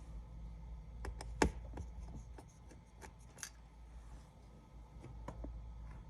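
Small tools clicking and scraping on an iPad 10's opened internals as the LCD connector is worked loose: a scatter of light, sharp clicks, the loudest about one and a half seconds in, over a steady low hum.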